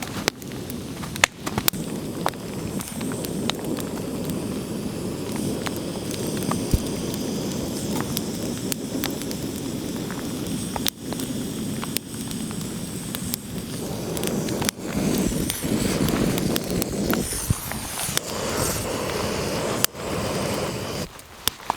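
Small wood fire being started in wet weather: a steady rushing noise with scattered sharp crackles and pops.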